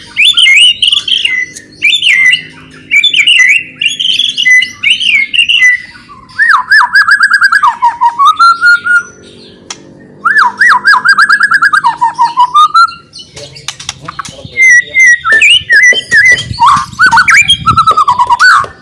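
White-rumped shama (murai batu) singing loudly: varied whistled phrases that slide up and down, two runs of rapid rising trill notes in the middle, and sharp clicking chatter notes near the end.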